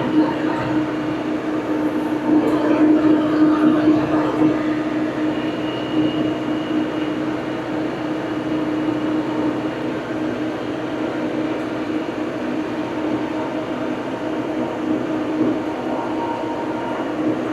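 Old farm tractor engine running steadily, a continuous drone with an even pitch throughout.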